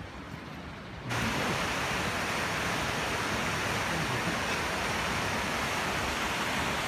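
Steady rushing of river rapids. The sound comes in suddenly about a second in and holds level after that.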